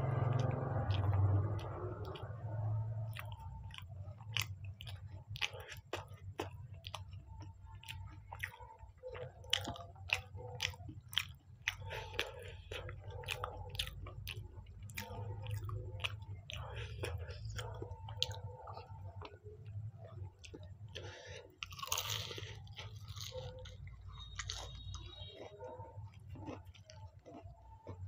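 A person chewing a mouthful of fried samosa close to the microphone: irregular crisp crackles and wet mouth clicks.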